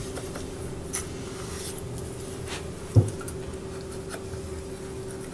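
Sharp kitchen knife slicing through a ripe pear on a wooden cutting board: a few faint rubbing strokes and one sharp knock on the board about three seconds in, over a steady low hum.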